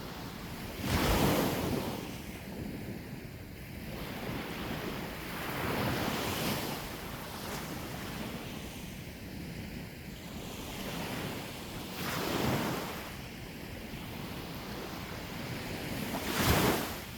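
Sea waves breaking on the shore four times, each a swell of surf noise about every four to six seconds, over steady wind buffeting the microphone.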